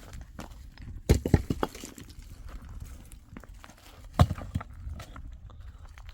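Sharp knocks: a quick run of about four about a second in, then a single louder one about four seconds in, with faint scattered clicks and rustles between.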